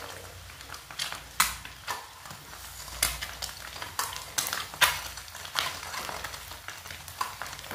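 Boiled eggs sizzling as they fry in oil in a kadhai. A metal spatula turns them, clinking and scraping against the pan in sharp, irregular knocks.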